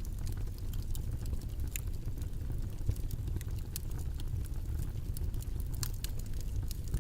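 Steady, low, rumbling background noise with many faint, irregular clicks scattered through it.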